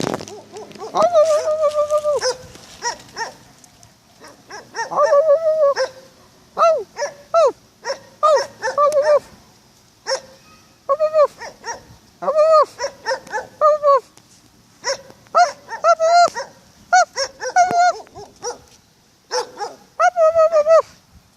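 A dog barking and yelping in bursts of several short, high-pitched calls with pauses between, and one drawn-out whine about a second in.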